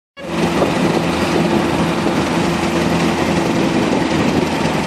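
A tractor engine runs loud and steady, holding a nearly constant pitch, as it would during a pull.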